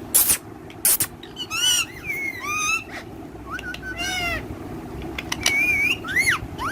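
Pet parrots calling: a string of shrill screeches and chattering calls, then rising-and-falling whistled notes near the end.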